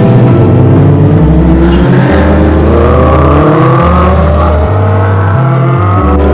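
Superbike engine accelerating, its pitch rising steadily for several seconds and cutting off sharply near the end, over background music with a heavy bass line.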